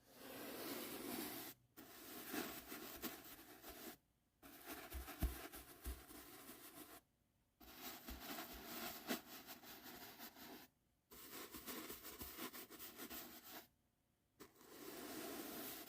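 Soft brush bristles swept over the microphone in slow, close strokes: about six long rustling strokes, each broken off by a short silent pause.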